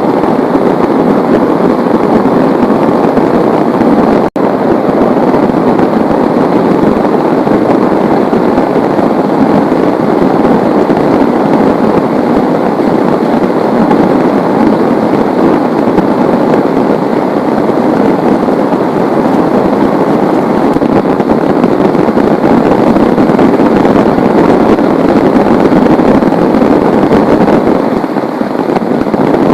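Heavy rain falling steadily, a dense, loud hiss. The sound cuts out for an instant about four seconds in.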